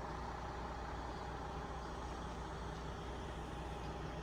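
Rocky Mountaineer passenger train running, a steady noise with a constant low hum under it.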